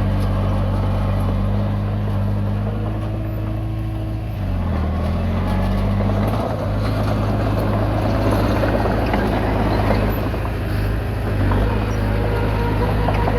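Komatsu D20P bulldozer's diesel engine running steadily under work. About four seconds in its pitch dips briefly, then picks up again, and a denser rattling, clanking noise builds over it until near the end.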